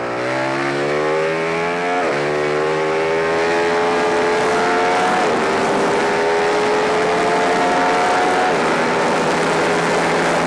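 Motorcycle engine at full throttle, pulling up through the gears, with wind rush. Its pitch climbs steadily and drops sharply at three upshifts, about two, five and eight and a half seconds in, each climb slower than the last.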